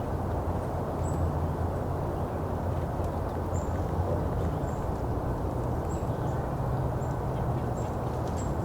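Golden-crowned kinglets giving very high, thin call notes, short and repeated about once a second, over a steady low background rumble.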